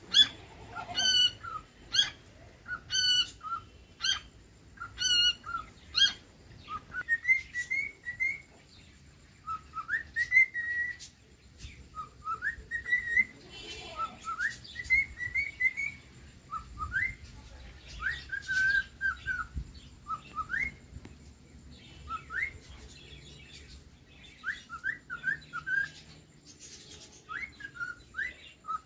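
Cockatiel whistling its song. It starts with short whistled notes repeated about once a second, then moves to a run of rising, gliding whistled phrases.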